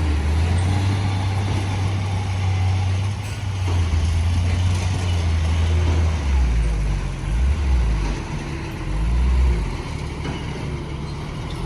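Heavy diesel construction machinery running, a steady low rumble that swells and dips.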